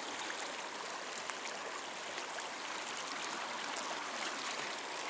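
Fast-moving high water rushing down a flooded wash: a steady, even rush of running water.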